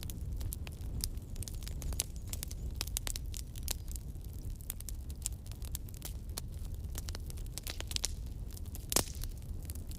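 Wood campfire crackling: irregular snaps and pops over a steady low rumble, with one louder pop near the end.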